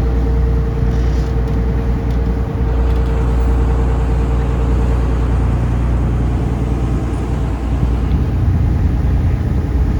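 Taxi boat's engine running steadily under way: a loud, low, even drone, with a faint steady whine that fades out about halfway through.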